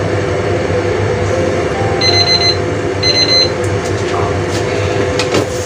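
Steady rushing sizzle of baby squid cooking in a covered wok over a gas burner. Two short electronic beeps come about two and three seconds in, and a few light clicks near the end.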